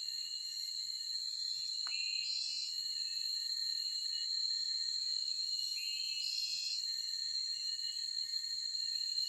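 Steady high-pitched drone of insects in a forest, with a bird repeating a short call twice, about four seconds apart, and a single sharp click just before the first call.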